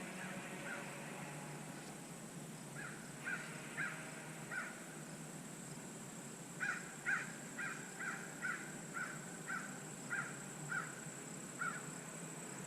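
A bird calling outdoors in short repeated notes: a group of four, then after a pause a run of about a dozen at roughly two a second. A steady high-pitched whine, like insects, runs underneath.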